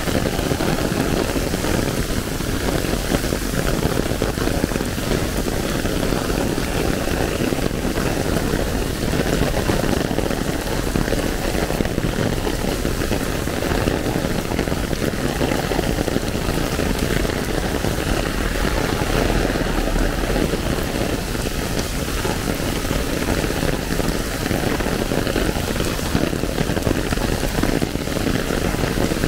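Heavy rain falling on an umbrella held overhead: a dense, steady patter of countless drops.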